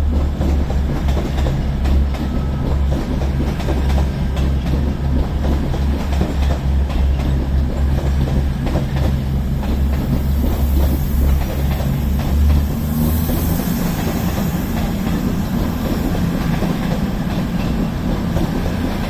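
Two coupled Class 221 Super Voyager diesel-electric units departing, their underfloor diesel engines running with a loud, deep drone and some wheel clatter on the rails. About two-thirds of the way through, the deepest part of the drone drops away and the engine note sits higher.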